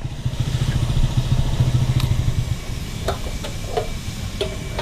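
Honda CG 125 single-cylinder four-stroke engine idling with a steady low rumble, which becomes quieter about two and a half seconds in.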